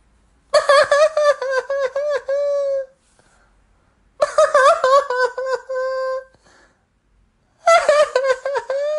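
A little girl crying in three high-pitched bouts of sobbing. Each bout is a run of quick, catching sobs that ends in a held wail.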